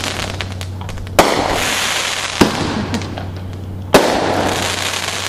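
Aerial fireworks going off: three sharp bangs, about a second in, near the middle and about four seconds in, the middle one lighter, each followed by dense crackling.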